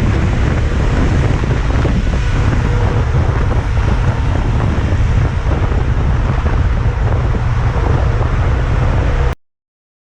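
Heavy wind rumble buffeting the microphone of a camera on a moving motorcycle, loud and steady. It cuts off abruptly about nine seconds in.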